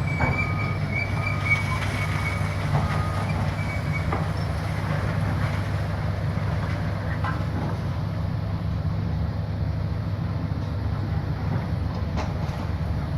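Heavy demolition machinery running with a steady low rumble. A high metal squeal comes and goes in the first few seconds, with a few scattered knocks.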